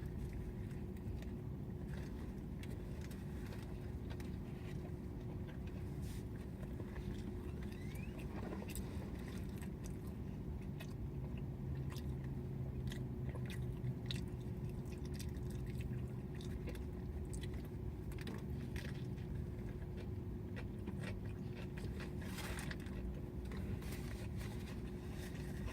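A person biting and chewing food up close, with scattered small crunches and mouth clicks. A steady low hum runs underneath.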